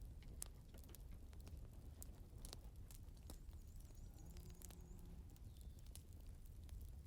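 Wood fire crackling faintly: scattered sharp snaps and pops over a low steady rumble. A faint pitched hum sounds for about a second, about four seconds in.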